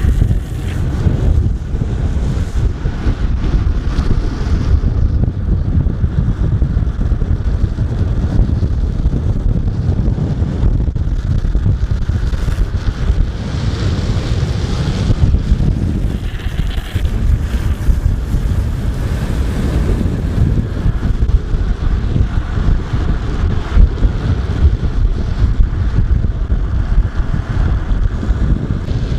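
Strong wind buffeting the microphone during a fast ride: a heavy, steady low rumble.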